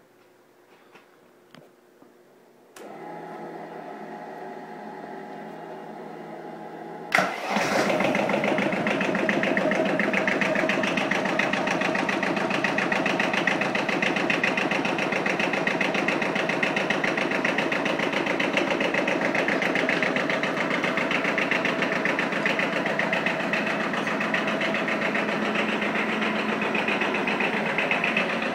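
Lombardini diesel engine of an Arctic Cat ATV being started: a few faint clicks, a steady whirr for about four seconds, then the engine catches suddenly about seven seconds in and settles into a steady, even idle with a fast diesel clatter.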